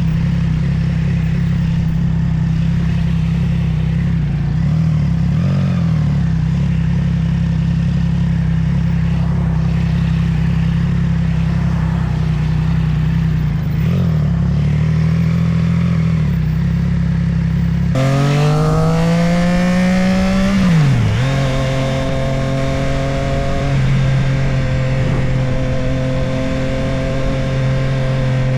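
Motorcycle engine running at a steady cruise. Then, with an abrupt change in the recording, it accelerates with rising pitch, drops sharply as it shifts gear, and settles back into a steady cruise.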